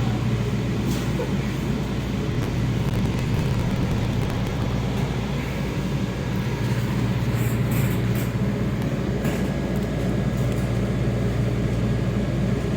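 Steady low hum and rumble inside the cabin of a Kawasaki 7000-series Metrorail car, with a few faint clicks about halfway through.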